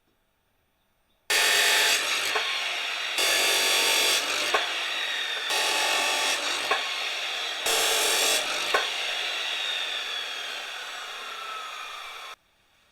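Angle grinder working steel in four heavier passes about two seconds apart. The disc then winds down with a falling whine before the sound cuts off suddenly near the end.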